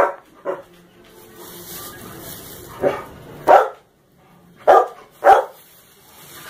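A dog barking: six short, sharp barks, coming in three pairs about half a second apart.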